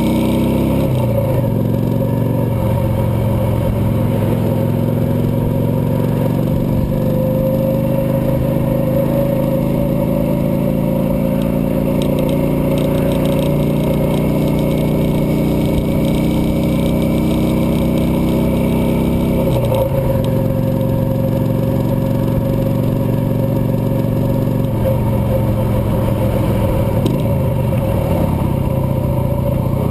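Cruiser motorcycle engine running steadily under way, its pitch dipping and climbing again as speed and gears change about a second in, around twenty seconds in, and a few times near the end.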